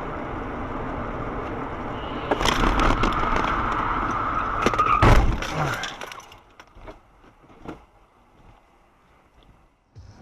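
Car crash: road and vehicle noise with a high steady tone for a couple of seconds, then a loud impact with breaking sounds about five seconds in. After that it goes much quieter, with a few scattered clicks.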